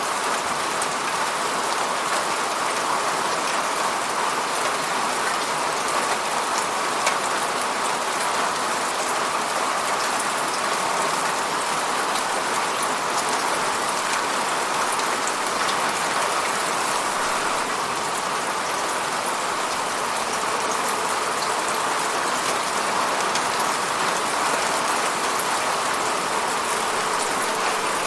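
Steady falling rain hitting a surface, a constant even hiss with fine individual drop patter.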